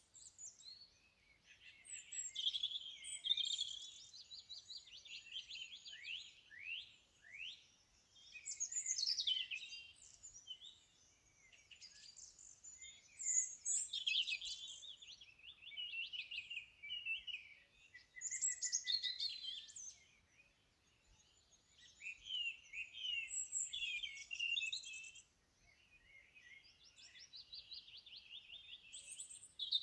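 Small songbirds singing and chirping: overlapping high trills, quick falling sweeps and chirps in phrases of a few seconds, with a short lull about two thirds of the way through.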